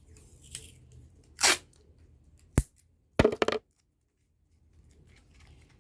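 Craft materials being handled: a short scraping or tearing rustle, then a sharp click and a quick rattle of small clicks.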